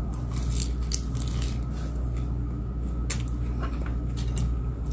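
Close-up chewing of a person eating a raw green leaf: soft scattered wet mouth clicks and crunches over a steady low background hum.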